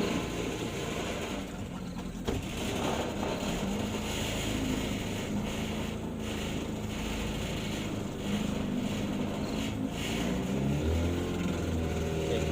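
An engine running steadily, its pitch wavering, with a deeper, stronger hum coming in about ten seconds in.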